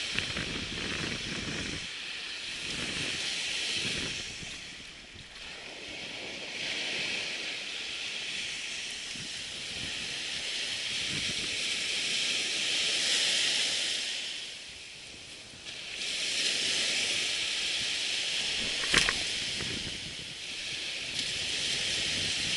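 Surf washing onto a beach, with wind, swelling and fading every few seconds. A single sharp click about three-quarters of the way through.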